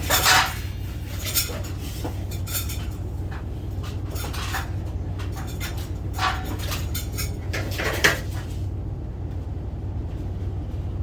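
Scattered metal clanks and rattles, about six separate knocks, from door hardware being pulled and handled, over a steady low hum.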